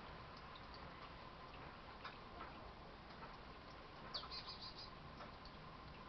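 A chickadee's call about four seconds in: one quick down-slurred high note followed by a rapid run of short notes, over faint scattered ticks.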